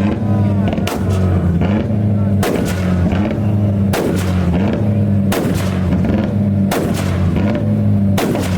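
Car engine held at high revs with loud exhaust bangs about every second and a half; the engine note dips briefly at each bang and climbs back.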